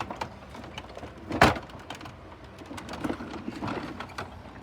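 Handling noises: one sharp knock about a second and a half in, with scattered small clicks and rustling around it.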